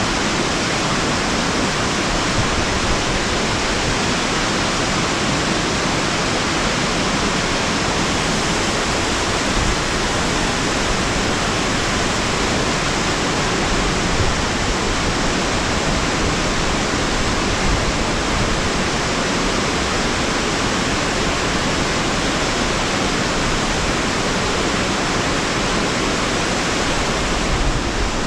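A waterfall running, a loud, steady rush of falling water.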